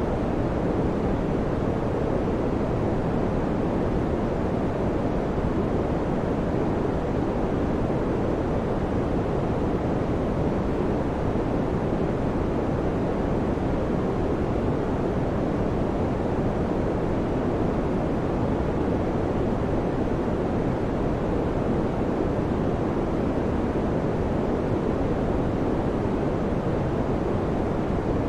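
Electric fan running steadily: a constant low, even whooshing noise with no change in speed or pitch.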